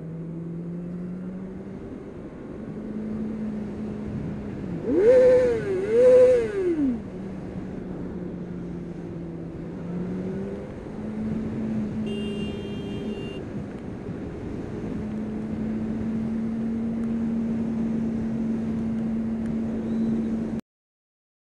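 Honda CBR600RR inline-four motorcycle engine running steadily under the rider, then revved hard twice in quick succession about five seconds in, each rev climbing and falling back. A short high tone sounds about twelve seconds in, and the sound cuts off shortly before the end.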